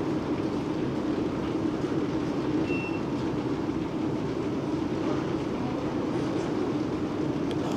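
A train running nearby: a steady low rumble that holds even throughout.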